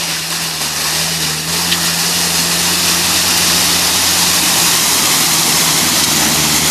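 Car engine running steadily with a constant hiss over it.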